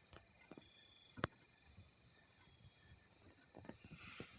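Steady, high-pitched chorus of night insects, with a few faint clicks and one sharp click a little over a second in.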